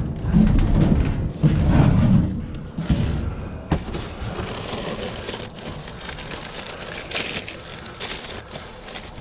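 Trash and scrap being rummaged through in a dumpster: heavy low thuds and rumbles for the first three seconds, then steady rustling and crackling with frequent small clicks and clatters.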